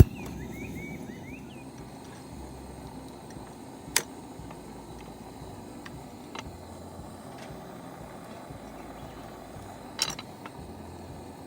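Wood campfire burning: a steady low noise with a few sharp crackles spread through.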